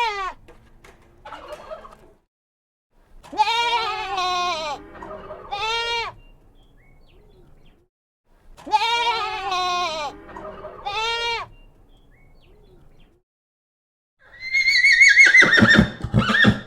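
Farm animals calling: a short call, then two matching runs of several rising-and-falling calls. Near the end comes a louder horse whinny that starts high and falls away.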